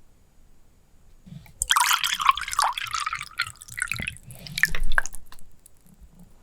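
Liquid dripping and gurgling close to the microphone, with quick wet pops and little falling pitch swoops. It starts about a second and a half in and stops about five seconds in.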